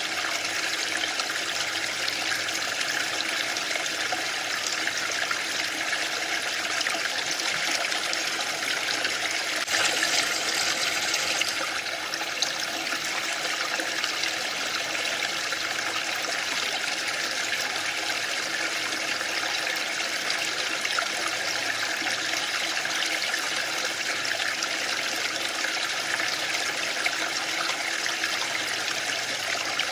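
Waterfall: a steady rush of falling water, with a slightly louder, brighter surge about ten seconds in that lasts a couple of seconds.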